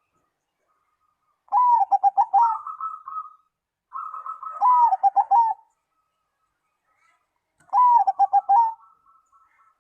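Zebra dove (perkutut) cooing: three phrases of quick, bouncing staccato coos, each lasting one to two seconds, with short pauses between.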